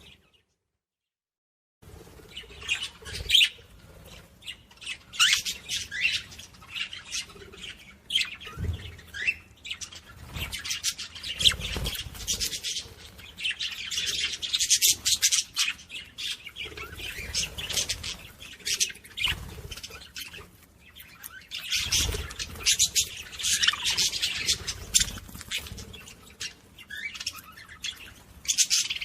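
Small pet parrots chirping and squawking in a busy, continuous chatter of short sharp calls, starting about two seconds in.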